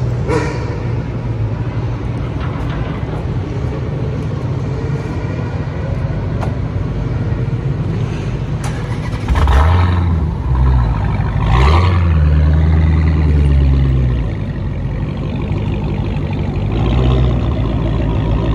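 Muscle car engine idling, revved hard twice about ten and twelve seconds in, dropping back to idle, then blipped once more near the end.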